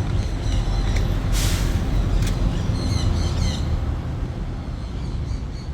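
Many aviary birds chirping and squawking in quick, short calls that thin out after about three and a half seconds. Under them runs a steady low rumble, with a brief hiss about a second and a half in.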